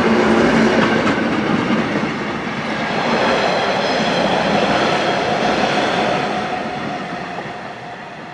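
Wagons of a yellow track-maintenance train rolling past at speed with a steady rumble and rattle of wheels on rails. The sound dies away over the last couple of seconds as the end of the train passes and recedes.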